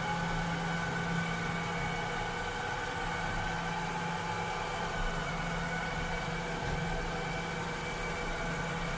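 Robot vacuum cleaner running steadily, its motor giving a low hum under several steady higher whining tones and a hiss of air.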